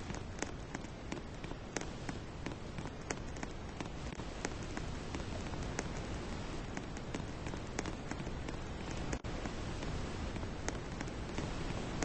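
Rain falling steadily, a constant hiss with many irregular sharp drop ticks hitting a surface.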